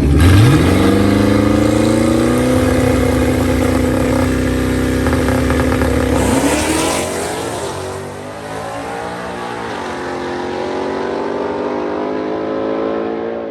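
A drag-racing street car's engine at full throttle down the strip. Its pitch climbs steeply at the launch and holds high, then drops about six seconds in as it shifts gear and climbs again. The sound cuts off suddenly at the end.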